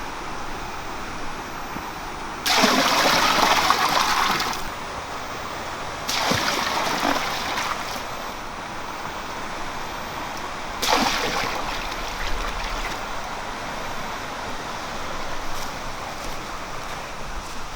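Water trickling steadily, with three sudden louder surges of splashing water, the first lasting about two seconds.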